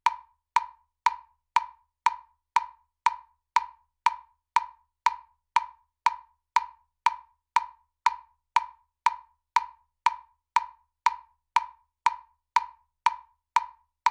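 Metronome ticking steadily at about two clicks a second (around 120 beats a minute), each click short and identical, with no accented beat.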